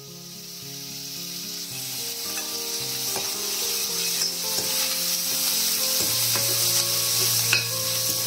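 Curry leaves and crushed garlic frying in hot oil in a kadai for a tempering (chhunk), sizzling and growing louder as the leaves hit the oil. A metal ladle stirs and scrapes the pan, with a few short clicks.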